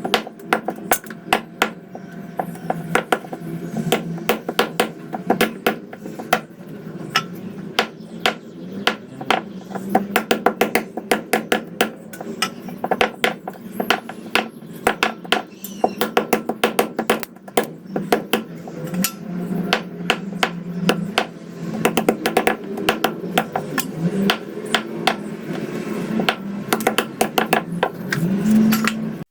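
Chicken being chopped into pieces with a knife or cleaver on a cutting board: many quick, irregular blows, sometimes several a second, with short pauses between runs.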